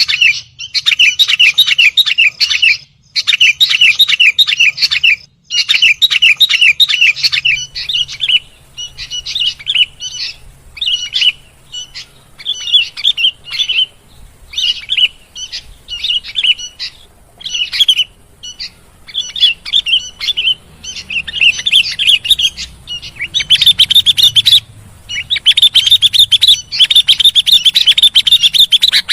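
Sooty-headed bulbul (kutilang) singing and chattering loudly in rapid, repeated bursts of chirps. Long dense runs come at the start and again near the end, with shorter, spaced phrases in between.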